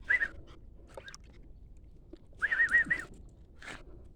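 High warbling whistle: a brief one at the start, then a louder one in the middle that wavers up and down about four times.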